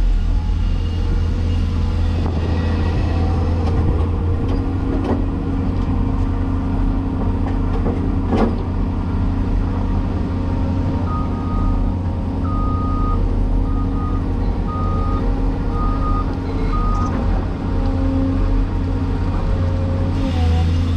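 Cat 336E excavator's diesel engine running steadily under load, with a single sharp knock near the middle. Around halfway through, the machine's travel alarm beeps repeatedly for about six seconds, the sign that the excavator is tracking.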